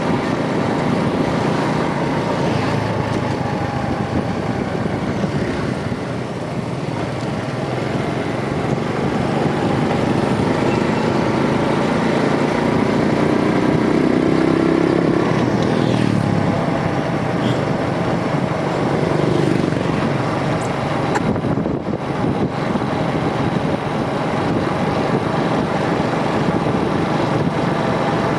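Rusi DL125 motorcycle engine running steadily while riding on the road, with a louder stretch around the middle where the engine note rises and then falls.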